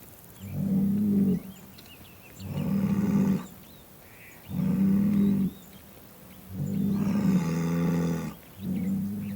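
Cows mooing: a run of low calls, each about a second long and about two seconds apart. The fourth is longer and drops in pitch partway through, and another begins near the end. Faint high chirps can be heard behind the first few calls.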